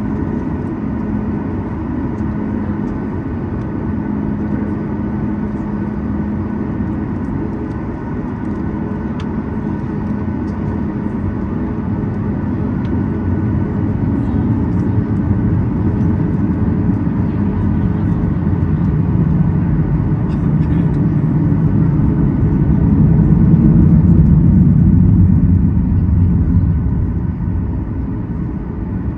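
Cabin noise of a Boeing 737 MAX 8 taxiing, heard from inside the cabin: a steady rumble and hum from its CFM LEAP-1B engines at low thrust. It grows louder for several seconds past the middle, then eases off near the end.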